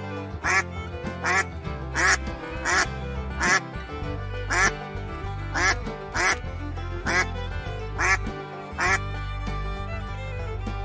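A duck quacking repeatedly, about eleven quacks at roughly one every three-quarters of a second, stopping shortly before the end, over background music.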